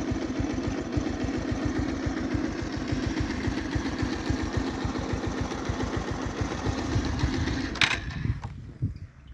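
Small engine idling with an even, fast low thump, about nine beats a second. A sharp click comes near the end, and the engine dies away just after it.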